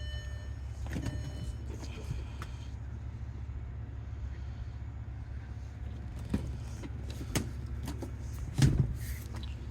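2004 Volkswagen R32's 3.2-litre VR6 idling steadily through its Borla cat-back exhaust, with a few clicks and knocks from the car being handled; the loudest knock comes about 8.5 seconds in.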